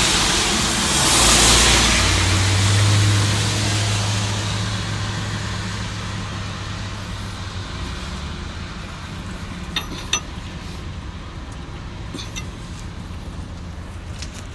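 Heavy truck's diesel engine running with a low steady hum and a burst of air hiss about a second in, the sound slowly fading; a few sharp clicks near the end.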